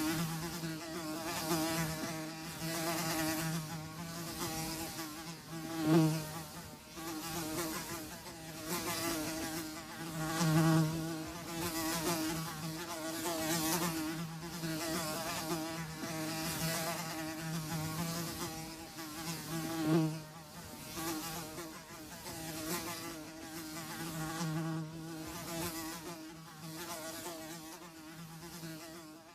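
Flies buzzing: a steady hum that keeps swelling and fading as they come close and move off. It is loudest in brief peaks about six seconds in and again near twenty seconds.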